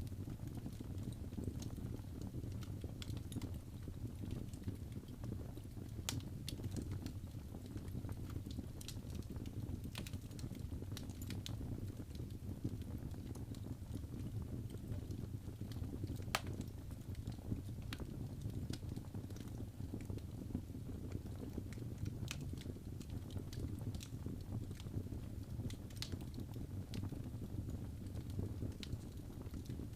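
Wood fire burning in a fireplace: a steady low rumble of the flames with irregular sharp crackles and pops, one of the loudest about halfway through.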